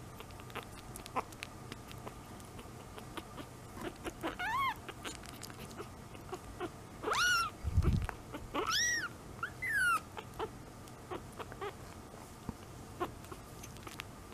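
A young kitten mewing four times in short calls that rise and fall in pitch, amid small clicking sounds. There is a low thump about eight seconds in.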